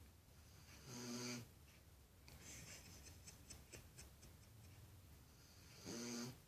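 A dog snoring: two snores about five seconds apart, each lasting about half a second. A run of faint quick clicks comes in between.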